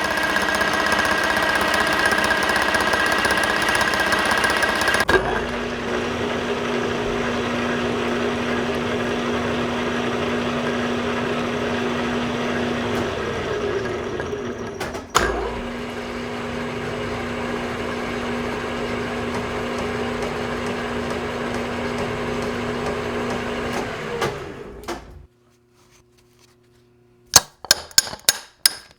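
Metal lathe running with the tool cutting a turned part: a steady machine hum under a continuous cutting hiss, with a single knock about halfway through. The lathe stops a few seconds before the end, and a few light metallic clinks follow.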